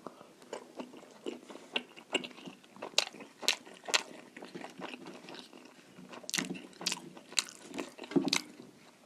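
A person chewing a mouthful of food close to the microphone, with irregular wet smacking and sharp clicking mouth sounds.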